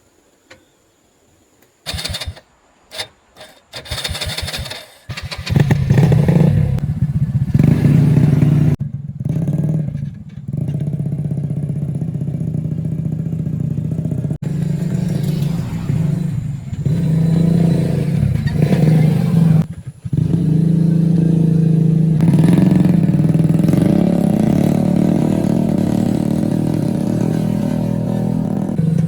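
A motorbike engine starting after a few short sputtering tries, then running on. It is revved up and down several times before settling into steady running.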